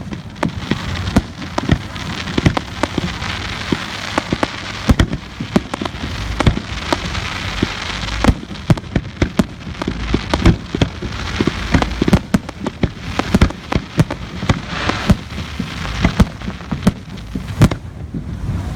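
Fireworks display: many sharp, irregular bangs over a dense, steady crackling hiss, heard through a phone microphone.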